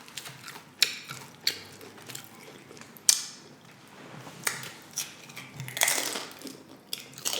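Close-miked chewing of crunchy nacho chips: sharp, irregular crunches about once a second, with a longer run of crunching a little past the middle.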